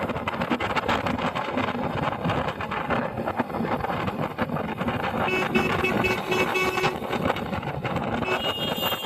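Wind buffeting and road noise on a moving motorcycle's microphone, steady and loud. About halfway through comes a quick run of short, evenly spaced beeps.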